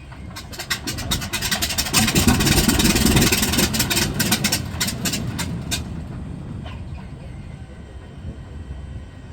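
Corsair's Pratt & Whitney R-2800 radial engine running on the ground. It grows louder about two seconds in, with a rapid crackle of pops, and eases back over the next few seconds to a steadier run.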